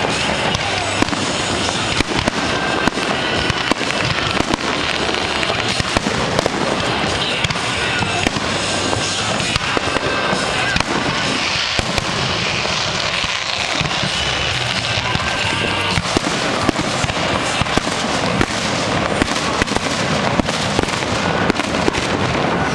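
Fireworks display going off: a dense, continuous run of bangs and crackling, with music playing underneath.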